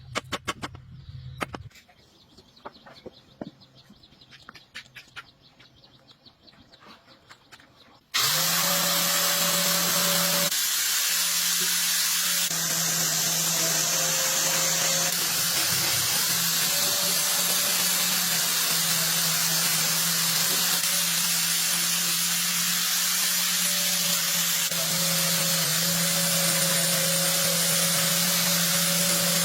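Light scattered clicks and taps, then about eight seconds in a power tool starts and runs steadily at constant speed, a loud hiss over a steady motor hum.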